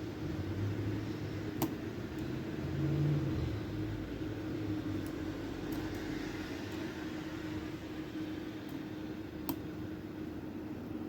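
A few sharp, sparse clicks of lock picks working pins in a challenge lock's keyway, the clearest two about one and a half seconds in and near the end, over a steady low hum.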